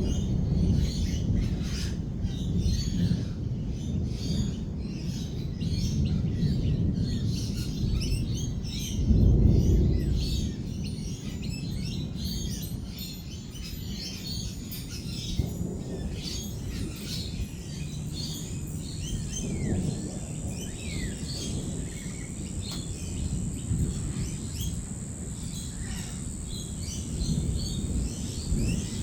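Many lorikeets chattering and chirping over a constant low rumble of rolling thunder, which swells loudly about nine seconds in. A steady high-pitched whine joins about halfway through.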